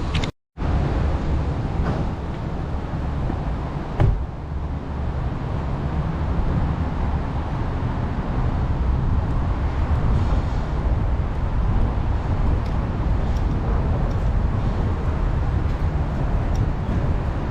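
Road and engine noise of a car being driven, a steady low rumble. The sound cuts out completely for a fraction of a second just after the start, and there is a single thump about four seconds in.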